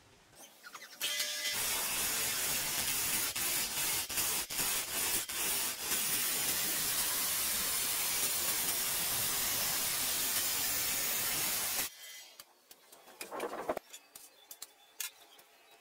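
A steady spray hiss of escaping pressurised gas, starting about a second in, with a few brief breaks, and cutting off after about ten seconds. A few faint clicks and knocks follow.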